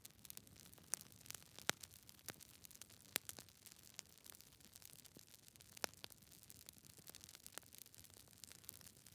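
Wood fire crackling in a fireplace: irregular sharp snaps and pops over a faint hiss, with a few louder pops scattered through.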